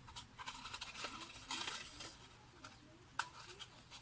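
Handling noise as a phone is fitted into a slot cut in a cardboard tube: light rustling and scraping with scattered small clicks, and one sharper click a little after three seconds.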